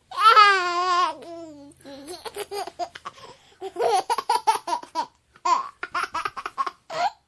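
Baby laughing: it starts suddenly with a long wavering squeal that falls a little in pitch, then breaks into quick bursts of giggles.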